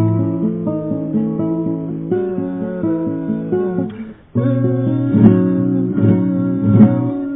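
Acoustic guitar being played, notes and chords ringing on; the playing breaks off briefly a little past halfway and then picks up again with strummed chords.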